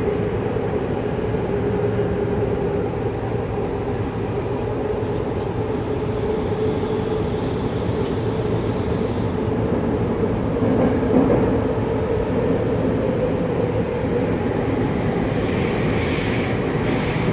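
Saitama Railway 2000 series electric train heard from inside the car while running through a subway tunnel: a steady rolling rumble with a held motor tone, and one brief louder surge about eleven seconds in.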